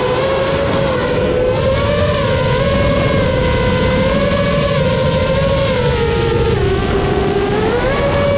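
A 7-inch FPV quadcopter's EMAX ECO II 2806 1500kv brushless motors and propellers whining in flight. The pitch wavers with the throttle, sags lower near the end, then rises again, over a steady rushing noise.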